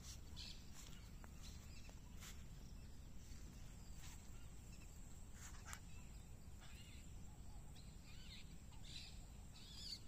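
Faint, scattered chirps of small wild birds, a little more frequent near the end, over a quiet low outdoor rumble.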